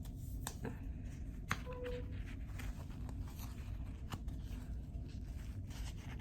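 Rustling and a few sharp clicks of a tight face mask being handled and fitted close to the microphone, over a steady low rumble.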